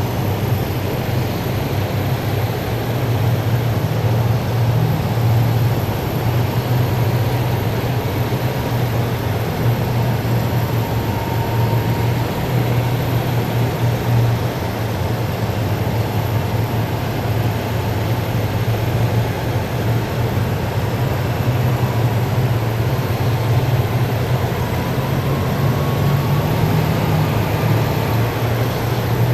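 Heavy military vehicles driving past in a column, their engines making a loud, steady low drone with a faint whine on top.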